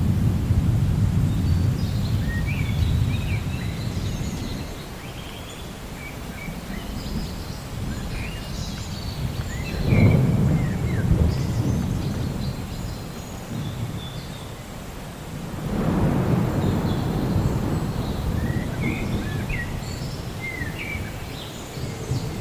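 Rolling thunder in a rainstorm, with a sharp peal about ten seconds in and another swell of rumbling about six seconds later. Birds chirp over the rumble throughout.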